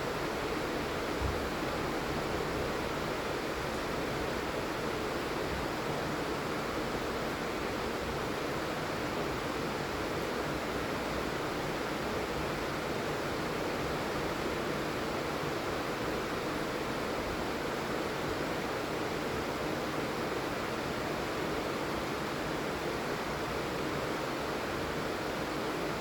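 Steady heavy rain falling, an even hiss-and-patter that does not change. There is a brief low thud about a second in.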